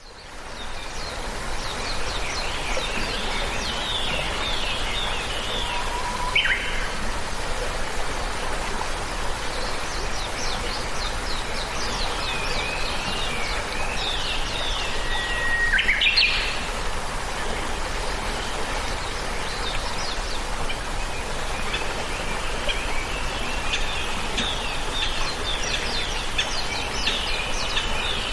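Several songbirds chirping and trilling in quick high-pitched phrases over a steady background hiss, with two louder whistled calls that drop sharply in pitch, one about a quarter of the way in and one just past halfway.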